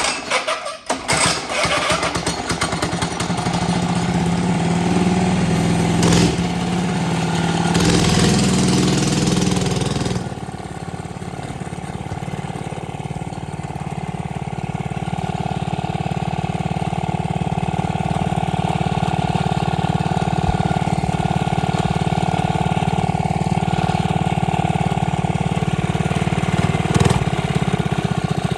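Minibike's small engine starting and catching within about a second, then running with the revs held up for several seconds before dropping back about ten seconds in to a steady run that slowly builds.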